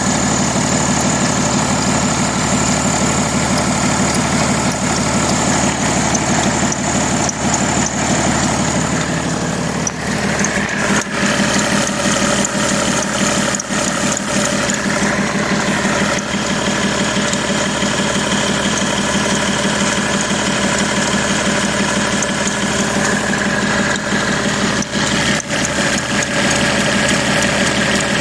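BMW M57 straight-six diesel idling with its accessory belt drive running. For about the first nine seconds a thin, high, steady tone sits over the engine, and near ten seconds in the sound changes, with other tones taking its place. That thin high tone is the kind of fine chirp that this belt makes, which the owner traces to either the belt or a pulley bearing.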